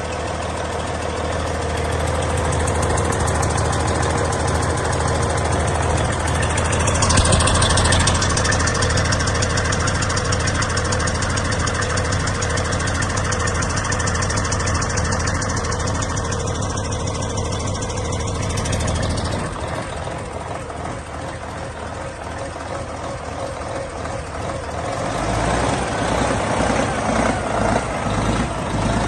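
Cummins ISX 15-litre inline-six diesel engine running on a test run. It runs steadily, drops back to a lower, quieter speed about two-thirds of the way in, and near the end settles into an even, rhythmic low pulsing.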